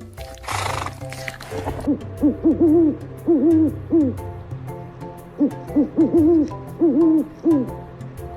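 A bird's low calls: arched notes repeated in groups of two or three, with short gaps between the groups, over steady background music. A brief breathy noise comes about half a second in.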